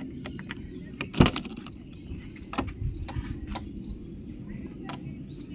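Mechanical clicks and one sharp knock about a second in from the emergency metal key being worked in a Mercedes car door lock and handle, over a steady low background hum.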